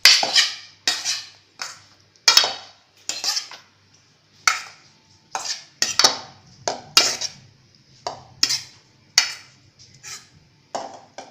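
A spoon clinking against a bowl while tossing a spicy pork salad (nam tok moo) with chili powder, toasted rice and seasonings. There are repeated sharp clinks, one or two a second, each ringing briefly.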